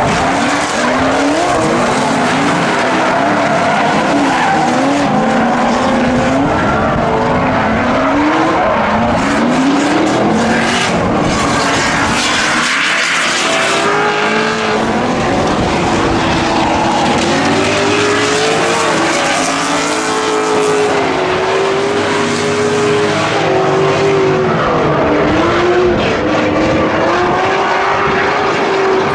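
A drift car's engine revving up and falling back again and again, with tyres squealing and skidding under it.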